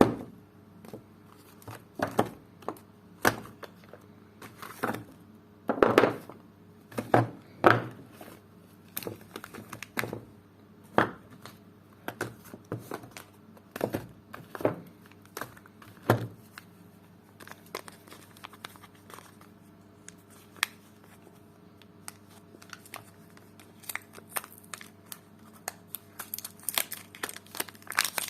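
Soap wrapping being unwrapped by hand: irregular crinkling and crackling with some tearing, with louder snaps in the first half and denser fine crinkling near the end.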